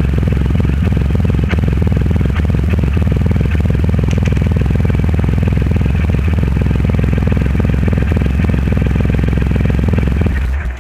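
Triumph Rocket 3 Roadster's 2.3-litre three-cylinder engine running steadily through a custom exhaust, cutting off near the end.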